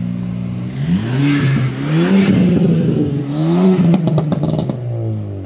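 Car engine idling, then revved three times, its pitch rising and falling with each blip. A quick run of sharp cracks comes about four seconds in as the revs drop.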